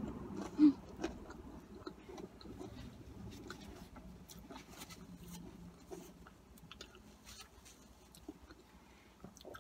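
Close-miked chewing of cheesy curly fries: soft wet mouth clicks and smacks that grow fainter toward the end. A short throat noise comes under a second in.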